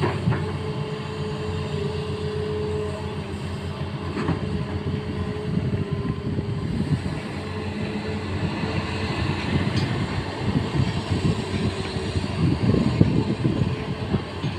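Hitachi excavator's diesel engine running steadily, with irregular clanking and rattling over it that grows busier near the end.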